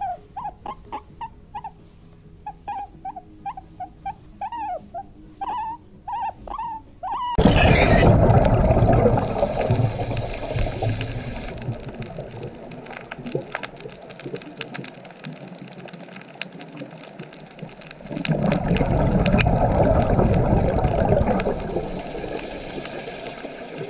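A run of short, high animal calls, one or two a second, each bending in pitch, lasting about seven seconds. It cuts to underwater rushing and bubbling water noise, which swells again for a few seconds near the end.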